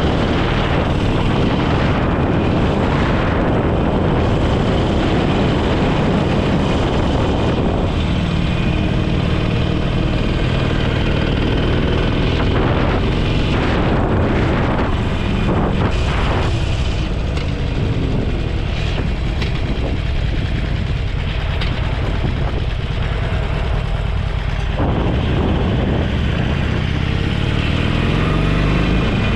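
Motorcycle under way at road speed: heavy wind rush on the microphone over the engine's steady drone, with the engine note shifting now and then.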